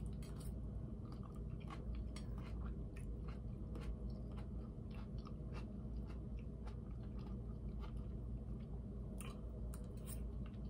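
Close-up chewing of cucumber and tomato salad: wet, crunchy mouth sounds with many short crisp clicks, over a steady low hum.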